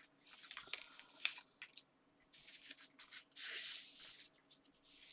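Sheets of paper and card being handled and slid on a work surface: soft rustles and a few light taps, with a longer sliding swish about three and a half seconds in.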